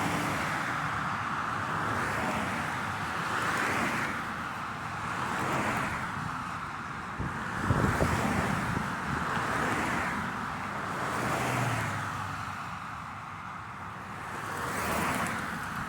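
Road traffic: cars passing one after another, each a whoosh of tyre and engine noise that swells and fades about every two seconds, with a louder vehicle carrying a deeper rumble going by about eight seconds in.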